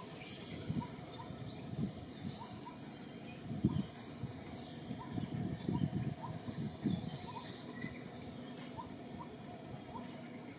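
Short, high-pitched animal squeaks, several in a row between about two and seven seconds in, over rustling and handling noise. A faint chirp repeats about twice a second in the background.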